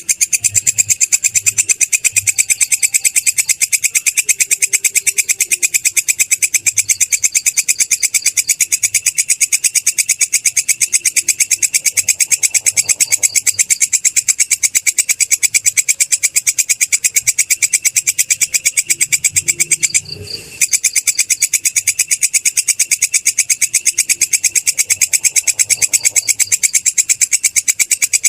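Belalang kecek katydid calling: a loud, fast, even train of high-pitched chirps, broken by one short pause about twenty seconds in.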